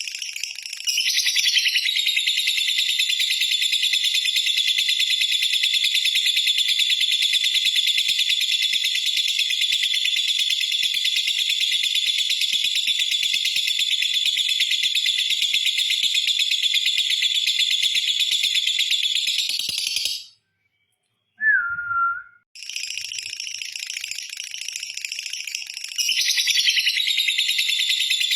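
Lovebird's long ngekek: a fast, high-pitched chattering trill held unbroken for about nineteen seconds. It stops, a single short falling chirp comes in the gap, and the trill starts again a couple of seconds later.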